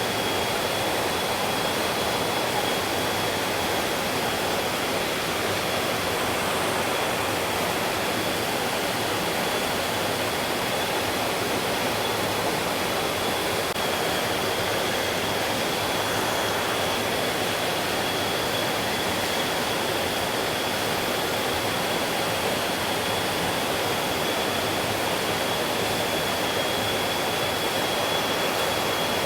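Mountain stream rushing over rocks, a steady, even flow of water. A thin, high, steady whine runs alongside it.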